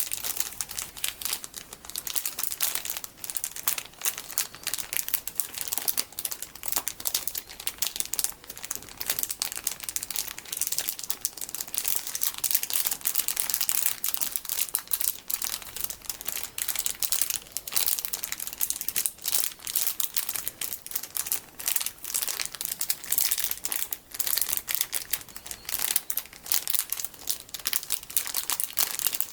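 Plastic packaging holding large colourful sticky beads being crinkled and squeezed: a continuous, dense crackle of thin plastic without a break.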